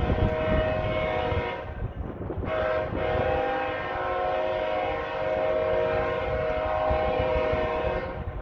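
Diesel locomotive air horn on a CSX stack train sounding a multi-note chord in two blasts: a short one of about a second and a half, then a long one of about five and a half seconds. A low rumble of the moving train runs beneath.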